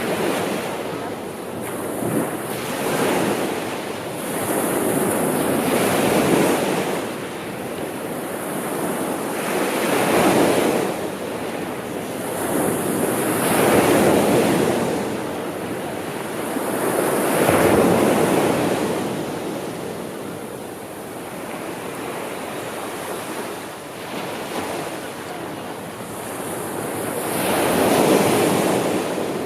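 Gentle sea surf: waves breaking and washing in one after another, the hiss swelling and falling every three to four seconds.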